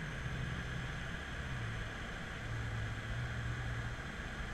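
BMW F10 M5's twin-turbo V8 heard from inside the cabin, a steady low drone over tyre and road noise. The engine note steps down in pitch about a second and a half in.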